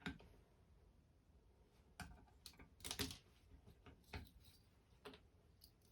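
Faint, scattered clicks and light knocks of hand tools and metal parts being handled while a ceiling fan motor is taken apart for its copper windings, about six in all, the loudest about halfway through.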